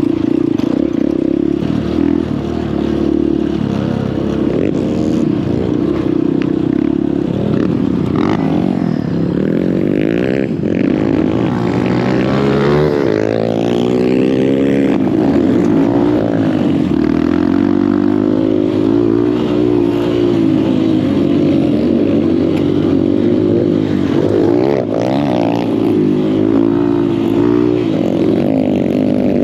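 Honda CRF150L dirt bike's single-cylinder four-stroke engine running under way, its pitch rising and falling repeatedly with the throttle.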